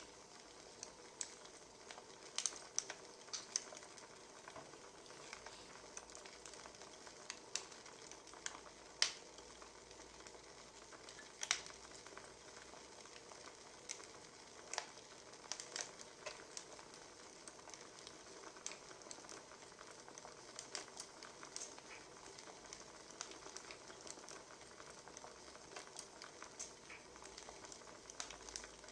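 Wood fire crackling: a faint steady hiss broken by irregular sharp pops and snaps, a few of them louder than the rest.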